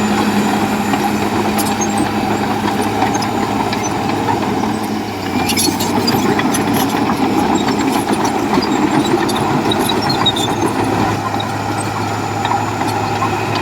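Komatsu bulldozer's diesel engine running steadily under load, its note shifting about five seconds in, with scattered clanks and ticks from the tracks and rocks, a cluster of them just after the shift.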